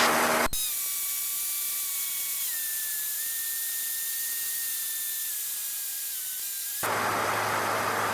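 Cessna 152 cockpit sound heard through the headset/intercom feed: a steady hiss with faint thin high whine tones that step down in pitch twice. At about seven seconds a fuller engine drone with a low steady hum comes back.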